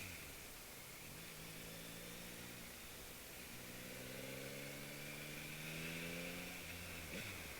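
Motorcycle engine pulling under throttle, its pitch climbing steadily twice with a short break between, then dropping as it eases off near the end.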